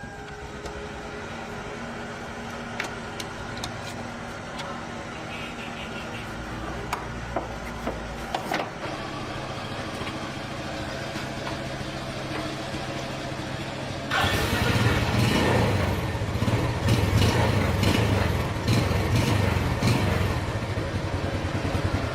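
Motorcycle engine running steadily, then much louder from about two thirds of the way in, with a few clicks before.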